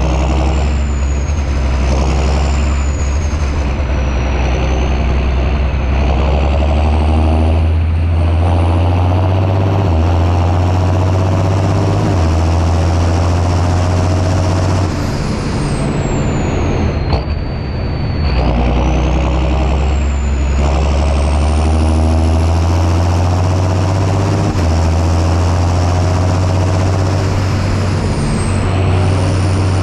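John Deere 6630 Premium tractor's six-cylinder diesel engine running under load while plowing. The engine note shifts in pitch several times, and a faint high whistle rises and falls over it.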